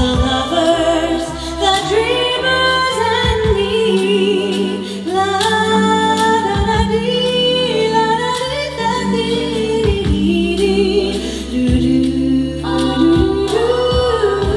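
A vocal group singing a cappella, several voices in layered harmony over a sung bass line, without wordable lyrics at this point.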